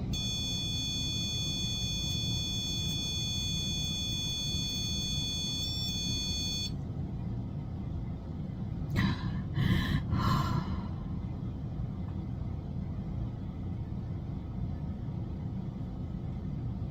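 A steady high-pitched electronic tone for the first seven seconds or so, cutting off suddenly, over a constant low rumble. A few short breathy sounds come around nine to ten seconds in.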